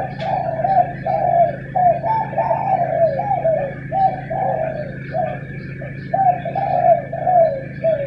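Spotted doves cooing over and over, calls following one another closely and sometimes overlapping, as if answering each other, over a steady low hum.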